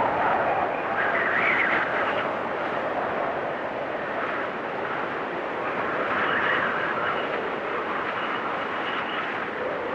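Storm wind blowing steadily with a high whistle that swells in gusts, once about a second in and again about six seconds in.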